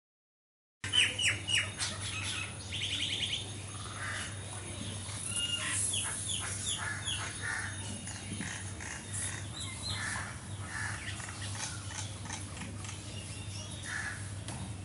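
Songbird calls: a varied run of short chirps, squawks and whistles with a rapid trill a few seconds in, starting after a brief silence.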